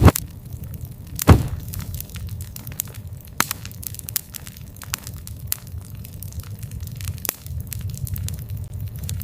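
Campfire crackling with frequent sharp pops of burning wood, two of them loud within the first second and a half, over a steady low rumble of the flames.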